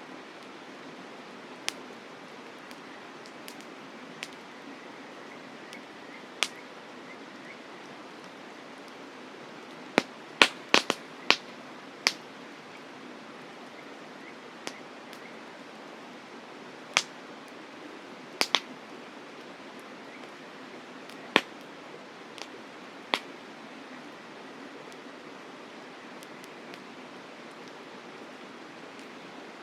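Wood campfire crackling: sharp, irregular pops and snaps, with a quick run of several about ten seconds in, over a steady soft hiss.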